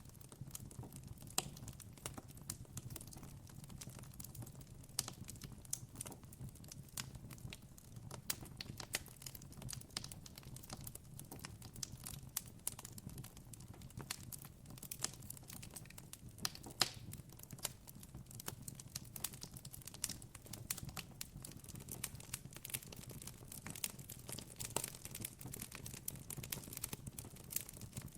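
Campfire crackling: a steady scatter of small sharp pops and snaps from burning wood, over a low, even hum.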